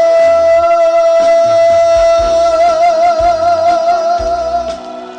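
Male trot singer holding one long note, steady at first and then with a widening vibrato before it fades near the end, over trot backing music with a bass and drum beat.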